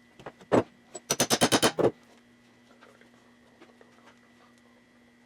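Sharp metal knocks and clicks from hand work on a VW front beam's king-pin parts: one knock, then a quick run of about eight clicks lasting under a second. After that only a faint steady hum.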